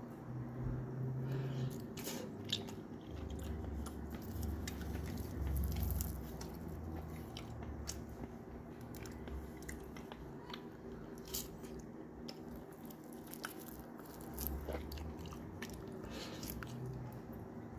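Close-up eating sounds from a meal of fried fish, rice and greens: a person chewing and biting, with sharp clicks scattered through.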